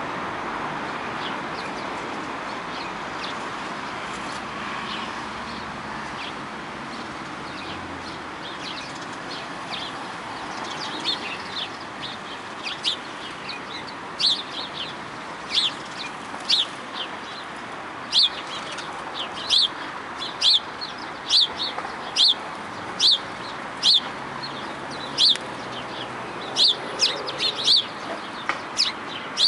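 A bird calling with short, sharp, high chirps, repeated about once a second, starting about eleven seconds in and growing steadier toward the end, over a steady background hiss.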